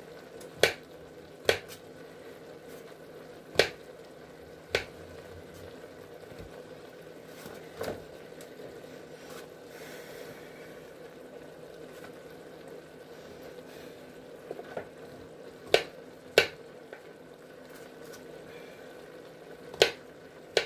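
Mushrooms and vegetables cooking in butter in an Instant Pot's inner pot, a steady low sizzle, broken by about eight sharp knocks spread through.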